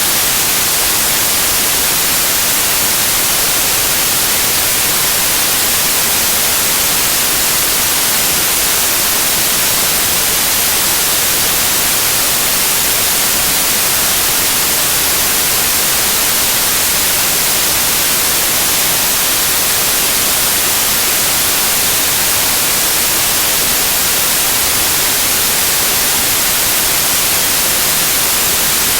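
Loud, steady white noise: an even hiss that does not change, brightest in the high frequencies.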